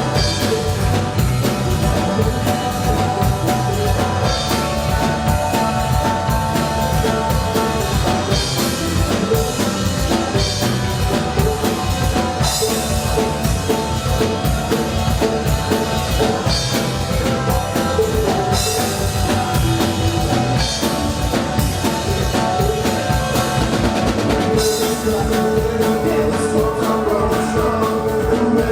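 Live rock band playing loud, with a busy drum kit (kick, snare and rimshots) driving a steady beat under held instrumental notes.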